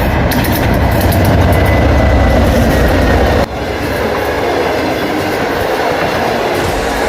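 Passenger train running past at close range: a loud, heavy rumble of wheels on rails with rapid clicking over the rail joints and a faint high wheel whine in the first two seconds. The sound drops abruptly in level about three and a half seconds in, then carries on steadily.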